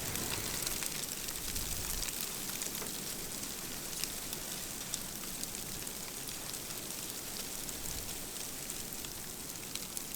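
Snow and wind in a blizzard heard from inside a hunting blind: a steady hiss with many fine ticks, like precipitation striking the blind. There is a low rumble for the first two seconds.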